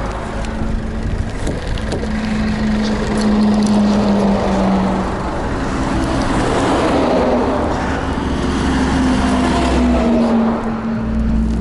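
GAZelle Next truck's engine running under load, heard from inside the cab, its note shifting up and down over a steady haze of road and wind noise.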